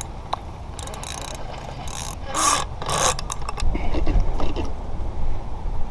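Fishing reel ratcheting in short bursts as the line is cranked and pulled against a snag, with wind rumbling on the microphone.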